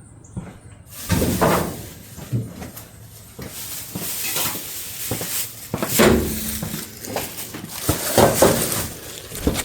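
Sheet-metal transmission floor cover being handled and worked loose: irregular scraping and clunking, starting about a second in.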